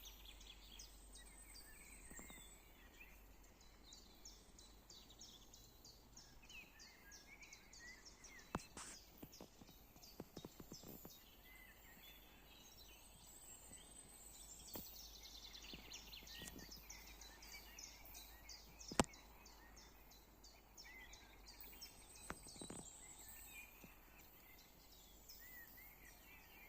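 Faint outdoor ambience of chirping wildlife: repeated trains of rapid, high-pitched chirps and short twittering calls, with a few sharp clicks, the loudest about two-thirds of the way through.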